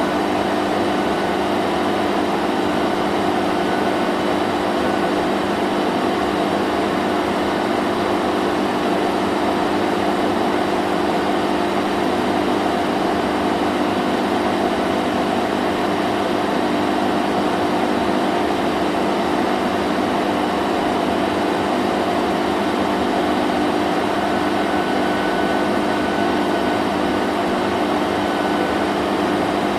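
Vacuum cleaner running steadily: a constant motor hum over an even rushing of air, with no change in level or pitch.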